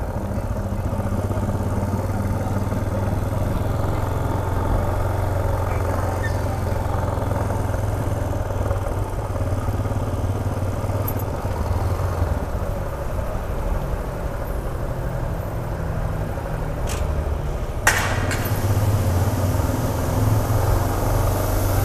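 Yamaha XTZ 250's single-cylinder engine running steadily while the motorcycle is ridden slowly, with one sharp knock near the end.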